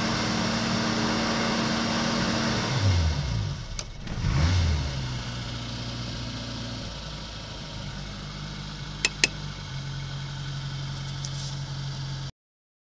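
Opel Kadett engine running cold after a start at −4 °C. About three seconds in, the engine speed dips and rises with a brief blip, then settles to a steadier, lower idle. Two quick clicks come about nine seconds in.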